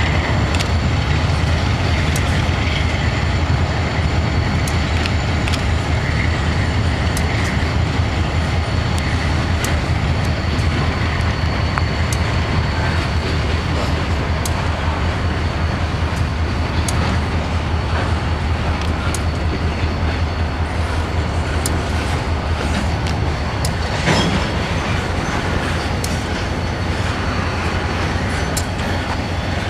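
Freight train of covered hopper cars rolling past: a steady rumble of steel wheels on rail with scattered sharp clicks, and one louder knock about 24 seconds in.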